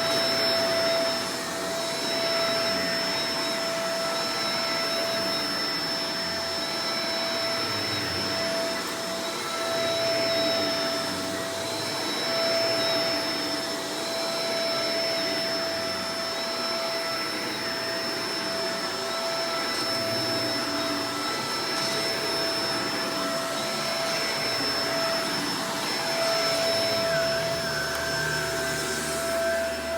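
Shark Professional Powered Lift-Away DLX (NV586) upright vacuum cleaner running steadily: an even rush of air with a steady motor whine. A low hum joins in near the end.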